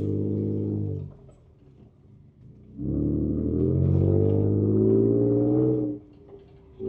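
Ford Ranger Raptor's twin-turbo V6 heard from inside the cab, pulling under throttle on a trail: it lets off about a second in and drops to a low idle, then comes back on the throttle about three seconds in, pitch rising as it revs, before letting off again near the end.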